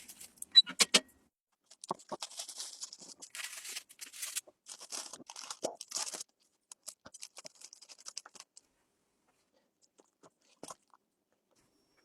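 Irregular crunching and crackling: a run of short, rough bursts and clicks that thin out after about six seconds and die away a little before nine seconds.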